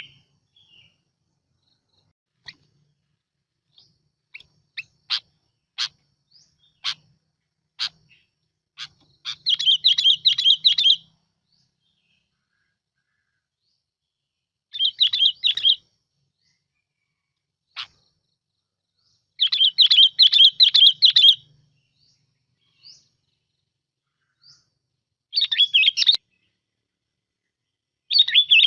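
Bulbul (bông lau) song played as a lure recording: a few single short chirps, then repeated phrases of fast, bubbling warble about a second or two long, with pauses of a few seconds between them.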